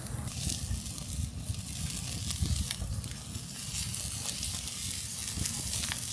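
Jumbo chicken skewers sizzling as they grill over a campfire: a steady hiss dotted with sharp crackles, over a low rumble.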